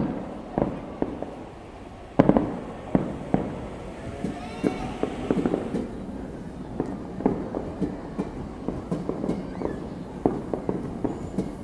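Fireworks going off in a irregular run of bangs and pops, the biggest about two to three seconds in, a flurry of fast crackling pops about five seconds in, then a steady scatter of smaller pops.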